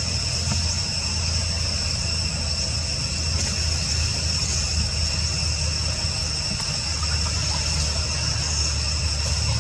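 Steady insect chorus, a continuous high-pitched trill that does not change, over a low steady rumble.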